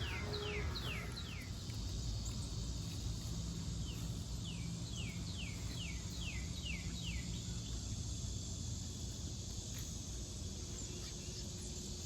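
A songbird singing a run of quick, falling whistled notes, about four a second: one run at the start and another from about four to seven seconds in. A steady low outdoor rumble runs underneath.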